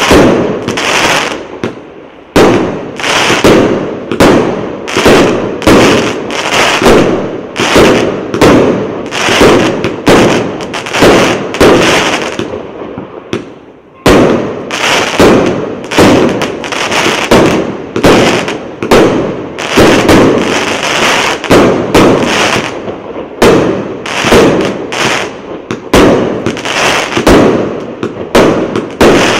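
238-shot fan-shaped fireworks cake firing a rapid run of shots and bursts, about two a second, with crackling between them. It eases off briefly about two seconds in and again near fourteen seconds, then picks up again.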